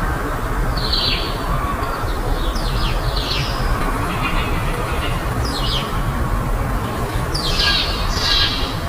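Birds calling with short, harsh chirps that come irregularly every half second or so, over a steady low rumble of background noise.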